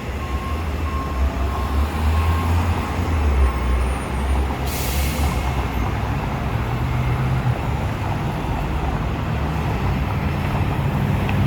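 Heavy vehicle's engine rumbling steadily, with a short hiss of air, like an air brake, about five seconds in.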